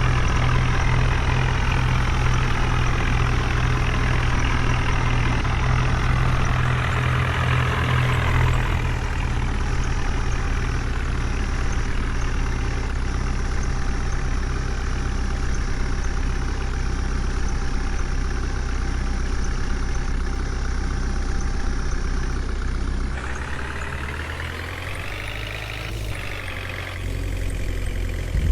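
Heavy diesel engine running steadily. Near the end its revs climb and then drop back.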